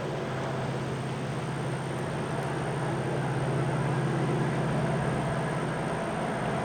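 A train on the CSX main line running with a steady low engine drone over rumbling noise, slowly growing louder.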